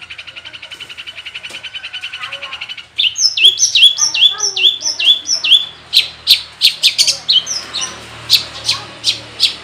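Long-tailed shrike (cendet) singing its varied mimicking song: a fast, even trill that grows louder, then about three seconds in a run of loud down-swept whistles about three a second, giving way to a string of sharp, short chips.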